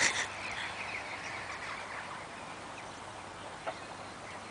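Small birds chirping faintly, a few short quick calls in the first second and a half, over a steady outdoor background hiss. A brief rush of noise comes at the very start and a single click about three and a half seconds in.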